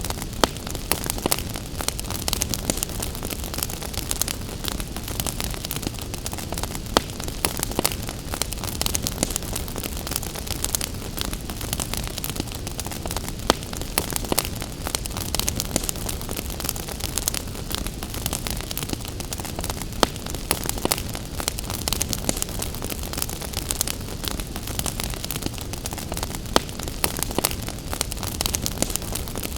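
Wood fire crackling with frequent small snaps and a louder pop every several seconds, over a steady hiss of rain.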